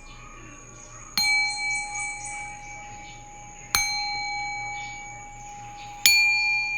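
A metal bell is struck three times, about two and a half seconds apart. Each strike rings on with the same few clear, high tones that slowly fade.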